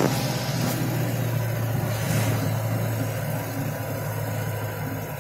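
Mahindra Bolero's engine running steadily as it drives, heard from inside the cabin as a low, even drone.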